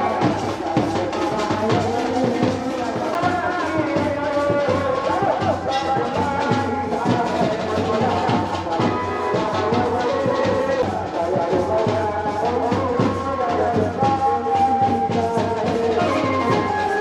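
Wedding band music: brass instruments playing a melody over a steady, fast drumbeat.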